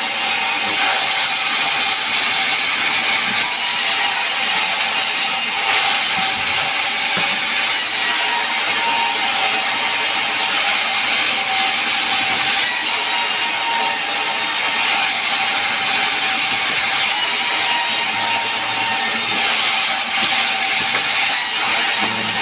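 Sawmill machinery running steadily: a loud, dense mechanical noise with a faint whine, its texture shifting every couple of seconds.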